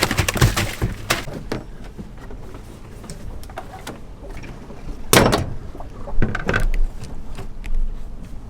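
A few knocks and thuds of gear being handled on a fishing boat, the loudest about five seconds in.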